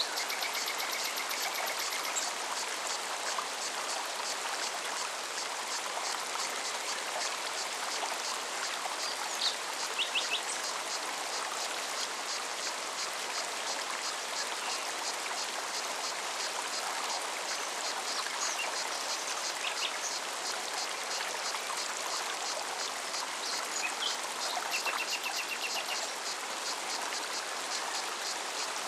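Forest mountain stream running steadily, with a cicada's rapid, even pulsing song that fades out after about twenty seconds. Short bird trills come in near the start, about ten seconds in, and again near the end.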